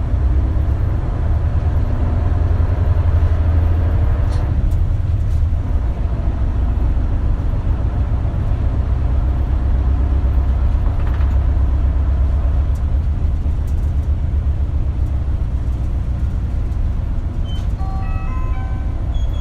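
Interior running sound of an Isuzu KL-LV280L1 city bus: a steady low engine drone, with the engine pitch rising and falling in the first few seconds. Near the end a short electronic chime melody of stepped tones plays over it, the kind of chime that leads into an onboard announcement.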